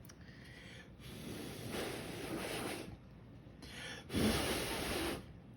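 Two puffs of air blown out by a person, most likely blowing across the model: a longer one of about two seconds, then a louder, shorter one of about a second.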